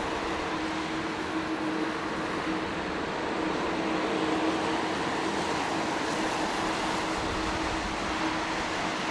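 Jet aircraft engines running steadily, a constant rushing noise with a held hum through it.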